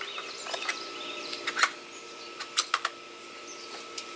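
Gear being handled: a string of sharp, irregular clicks and knocks as a pack is unpacked, over a steady faint hum.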